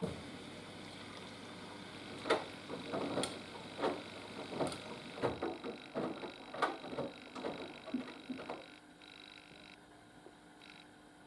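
Haier HW120 front-loading washing machine turning its drum during a cotton wash: wet laundry tumbling and water sloshing in irregular thuds and splashes, until the drum stops about eight and a half seconds in and only a faint steady hum is left.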